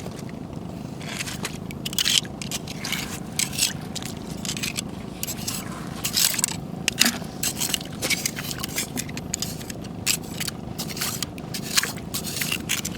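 Irregular crunching and scraping on a rocky, shell-strewn shore: many short sharp crunches in an uneven stream, over a steady low background hiss.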